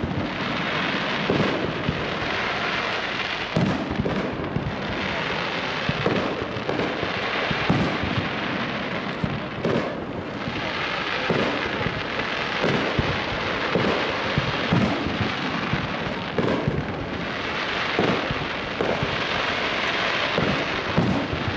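Aerial firework shells bursting in quick succession, a boom about every second, over a steady hiss.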